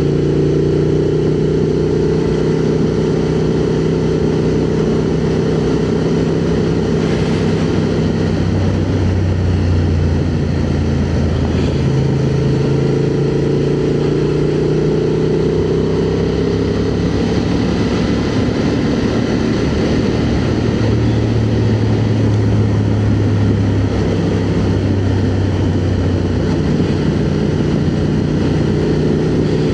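Honda XL750 Transalp's parallel-twin engine running at road speed, heard from inside the rider's helmet with steady wind rush. The engine note drifts up and down a few times as the speed changes.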